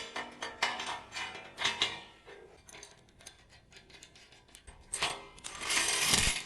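Metal clinks and taps of a homemade steel C-clamp being set on sheet metal and its nut run down, with a louder stretch of noisy metal-on-metal sound near the end.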